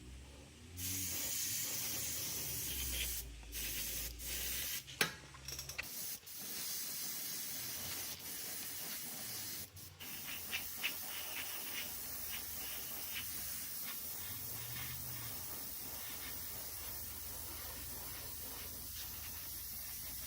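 A spray hissing in several bursts with short breaks, then a steadier hiss with faint ticks from about ten seconds in.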